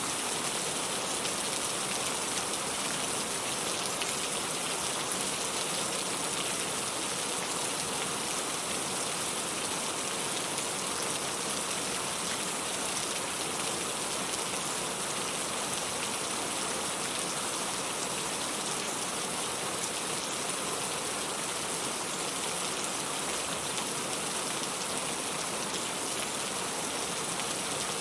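Steady falling rain used as a pink-noise sleep sound: an even, unbroken hiss, brightest in the treble, that neither swells nor fades.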